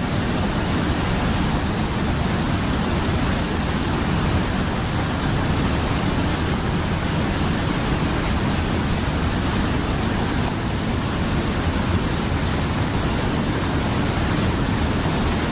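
Mountain river flowing over rocks: a steady, full rushing of water.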